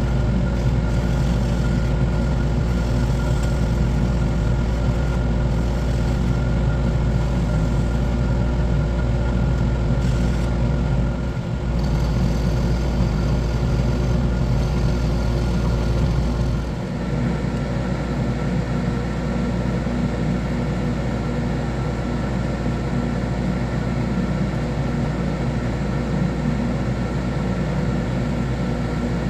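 Wood lathe running steadily with a constant motor hum, briefly dipping about eleven seconds in and settling a little quieter near seventeen seconds in.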